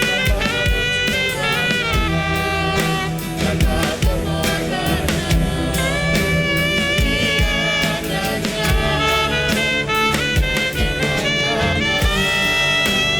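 Music from a choir performance with band accompaniment: sustained melody lines over a steady drum kit beat.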